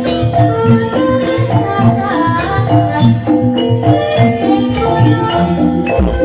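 Live Javanese jaranan music: a gamelan-style ensemble of struck metal keys and drums playing a quick, steady rhythm, with jingling percussion over it.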